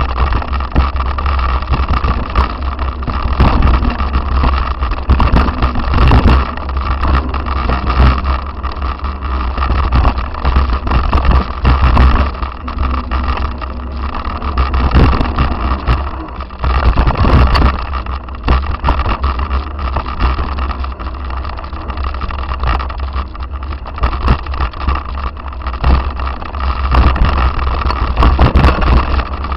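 Continuous heavy wind buffeting and rumble on a moving camera's microphone, with frequent short knocks and rattles.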